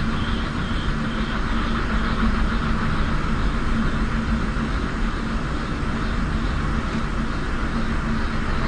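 Steady rushing noise with a constant low hum underneath, unbroken and even in level.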